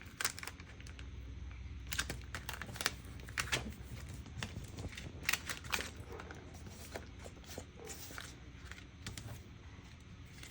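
Paper craft scraps rustling and crinkling as they are handled and sorted, with many short, sharp crackles at irregular intervals.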